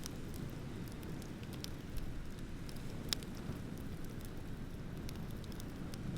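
Bonfire crackling with scattered sharp pops, the loudest about three seconds in, over a steady low rumble of ocean surf.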